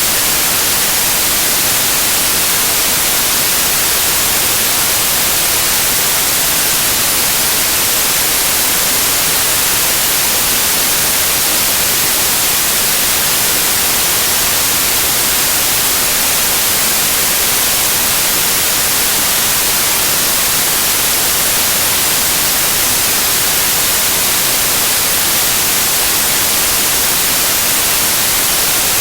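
Loud, steady white noise: an even hiss with no change.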